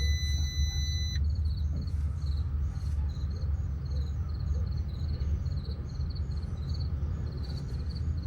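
A steady low rumble with insects chirping in an even, repeating pattern over it. A steady high electronic tone cuts off about a second in.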